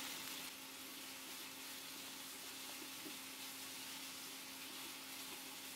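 Marinated chicken pieces frying in oil in a pan, giving a steady, soft sizzle as they are stirred with a spatula, over a steady low hum.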